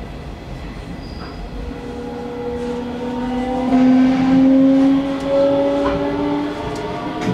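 Hanshin Railway local electric train accelerating: its traction motors whine in several tones that rise slowly in pitch, over the rumble of the running train. The whine grows from about two seconds in and is loudest near the middle.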